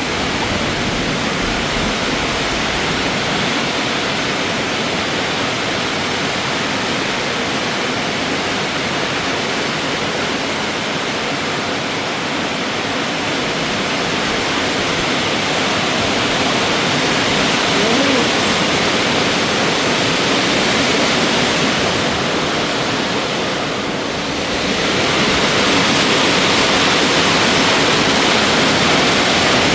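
Heavy rain pouring down steadily. It eases briefly about three-quarters of the way through, then comes down harder.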